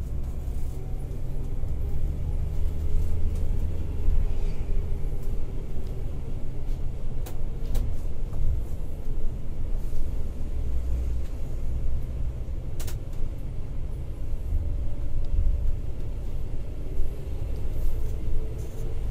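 Scania K410iB coach running at highway speed, heard inside the cabin: a steady low engine and road rumble with a faint steady hum above it. A few sharp clicks break through, the clearest about two-thirds of the way in.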